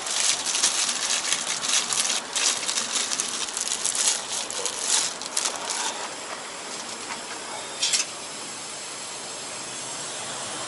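A person slurping udon noodles from a hot pot, a dense run of loud slurps for about six seconds, then a quieter steady hiss with one short slurp near the end.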